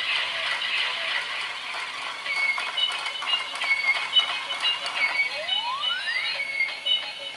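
A battery-powered toy Lamborghini's electronic sound chip playing through its small speaker. A tinny run of sound effects gives way, about two seconds in, to a beeping melody of short high tones. A single rising swoop comes a little past the middle.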